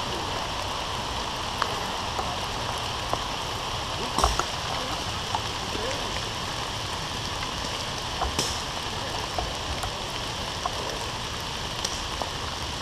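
Steady rain falling on the leaves of the tree canopy: a continuous hiss with a few scattered ticks and knocks.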